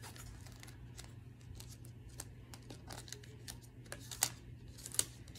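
A run of small clicks and crinkles as a plastic disc case is handled, with two sharper clicks near the end.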